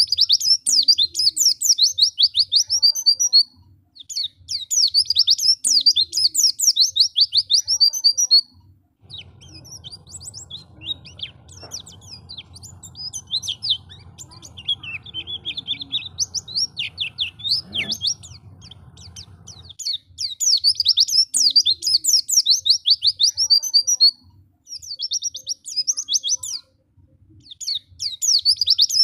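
White-eye (pleci) song: rapid high twittering phrases, each a few seconds long with short pauses between. The song softens and thins from about 9 to 20 s, while a steady low hum runs underneath.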